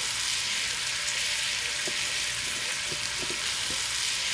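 Food sizzling in a frying pan: a steady hiss with a few small pops.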